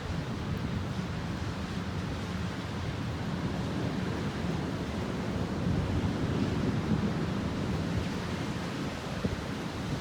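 Steady rushing noise of a rainstorm, rain and wind, growing a little louder around the middle.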